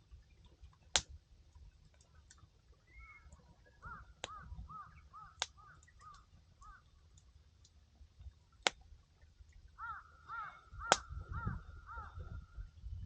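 Burning firewood crackling with sharp pops, about five loud ones, over a low rumble. A bird calls twice in runs of quick repeated notes, about four seconds in and again about ten seconds in.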